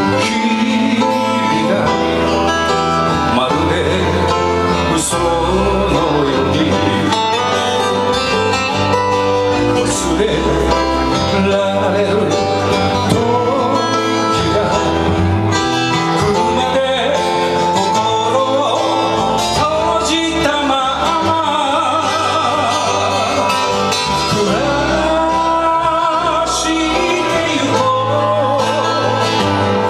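Band music led by guitars, playing steadily and evenly loud, with a wavering melody line coming in about two-thirds of the way through.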